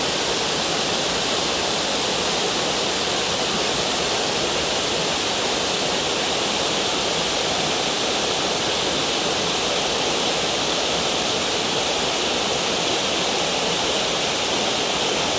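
Waterfall on a creek pouring steadily into its plunge pool, a constant rushing roar of falling water.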